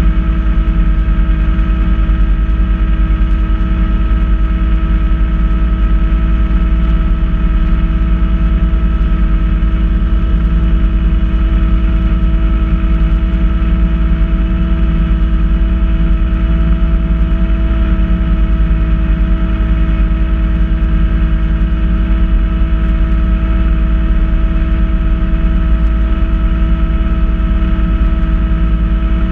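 Kubota B2650 tractor's three-cylinder diesel running steadily with its front-mount B2782 snowblower, a constant drone with a steady whine over it.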